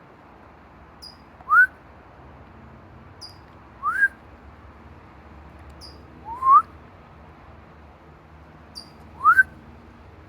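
A small songbird's faint, high, falling chirp, answered each time about half a second later by a person's louder, short, rising whistle; four such exchanges, roughly every two and a half seconds.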